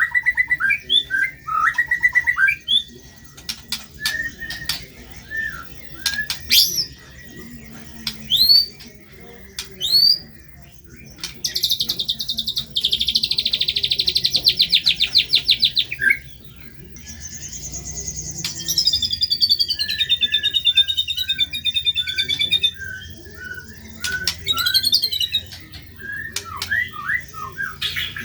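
White-rumped shama (murai batu) singing a varied song with harsh, rough phrases: runs of short whistled notes, sharp upward-sweeping chirps, a fast buzzy trill lasting several seconds near the middle, then a falling rattling series.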